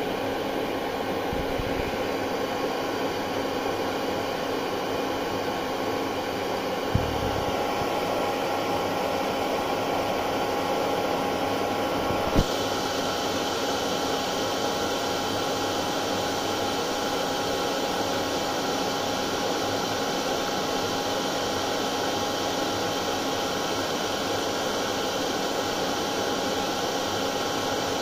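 Hair dryer running continuously: a steady rush of air with an even motor whine, used as white noise to soothe colicky babies. Twice a short click cuts through, the second about twelve seconds in being the louder.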